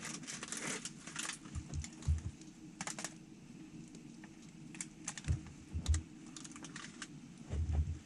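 Wood campfire crackling, with irregular sharp pops and snaps and a few dull low thumps.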